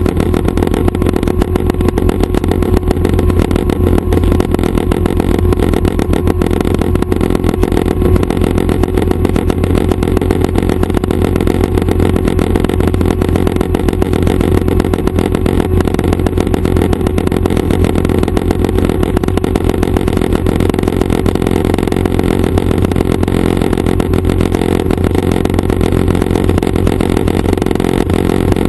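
Schweizer 269 training helicopter running steadily: its piston engine and rotor make a loud, even drone with a fast pulsing beat that holds without change.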